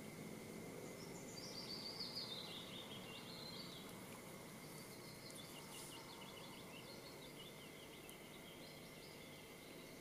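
A songbird singing two phrases, each a quick series of high notes falling in pitch, the first about a second in and the second about five seconds in, over faint steady outdoor background noise.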